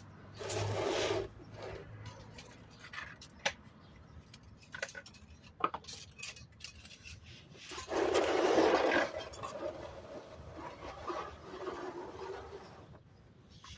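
Hand tools and car parts clinking and scraping during an oil-filter change: scattered sharp clicks and knocks, with short bursts of rustling scrape, the loudest about eight seconds in.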